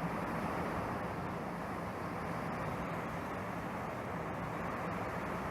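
Steady roar of torrential rain and strong wind from a Category 5 hurricane, an even rushing noise with no break.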